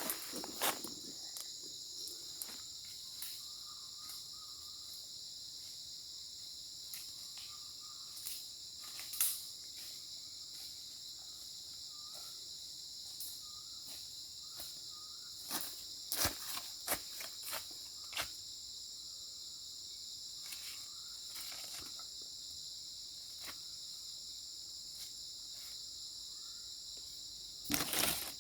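Steady, continuous chorus of insects such as crickets, with scattered sharp clicks and knocks from handling or steps, the loudest near the start and near the end.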